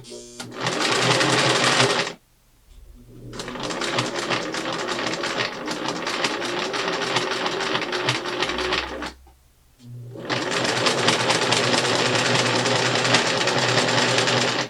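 1968 Singer Model 628 Touch & Sew Deluxe zig-zag sewing machine stitching through thick denim: three runs of rapid, even stitching over the motor's hum, stopping briefly about two seconds in and again around nine seconds.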